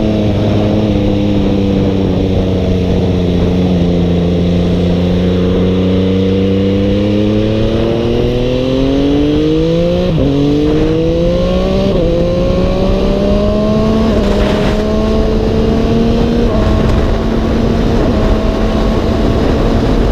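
MV Agusta Dragster 800RR three-cylinder engine running through a QD aftermarket exhaust under way. The revs sag a little, then climb steadily, with two quick upshifts about ten and twelve seconds in, before holding fairly steady at a gently rising pitch.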